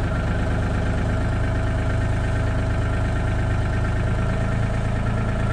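Hitachi 35U mini excavator's diesel engine idling steadily.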